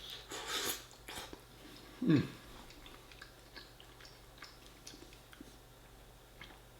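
Close-miked chewing and wet mouth sounds from someone eating lasagne, with small clicks scattered throughout. A brief falling sound about two seconds in is the loudest moment.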